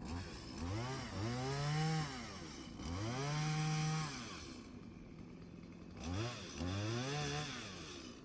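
Two-stroke chainsaw revved up to full throttle three times, each rev climbing, holding a few seconds and dropping back toward idle, as it cuts into a tree.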